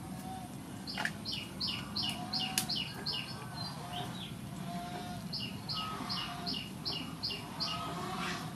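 A bird singing two quick runs of short, high chirping notes, about four a second, with a pause between the runs. A couple of sharp clicks from scissors snipping green peppercorn stems.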